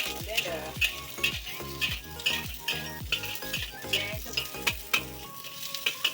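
Onion sizzling as it fries in oil in a pan and is stirred, cooking until translucent. Background music with a steady beat of about two and a half thumps a second plays over it.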